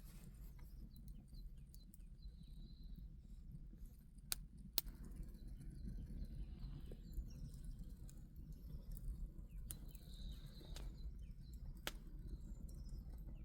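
Outdoor ambience: a steady low rumble with scattered sharp clicks and a couple of faint high chirps.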